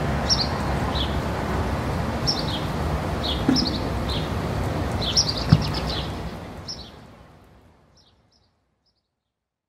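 Outdoor ambience: a steady background of noise with small birds chirping now and then, and a single short knock a little past the middle. It all fades out over about two seconds to silence.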